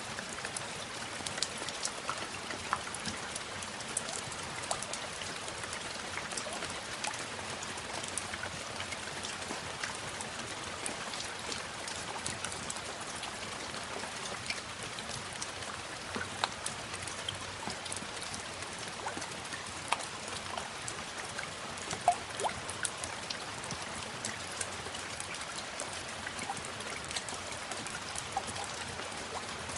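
Steady rain falling, with many individual drops ticking sharply against the even hiss. One drop lands louder about two-thirds of the way through.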